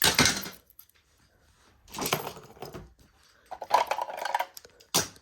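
Rustling and light clatter of small objects being handled and taken out of a box, in three short bursts with a sharp click near the end.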